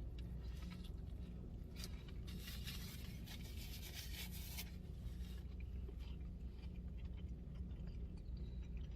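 Paper burger wrapper rustling and crinkling, loudest for a couple of seconds near the middle, with fainter handling rustles around it, over a steady low hum.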